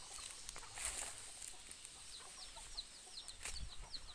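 A bird chirping: from about halfway through, a quick run of short high chirps, about four a second. Scattered light clicks and rustles come before it.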